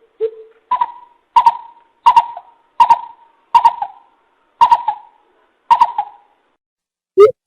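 Coucal (bìm bịp) calling: a slow series of hollow hooting notes, about one every 0.7 s. The first note is lower and the rest are higher. Near the end a loud, faster run of deep notes begins.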